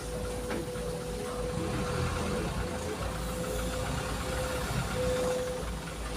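Heavy diesel engine running steadily: a low rumble with a thin, steady whine above it.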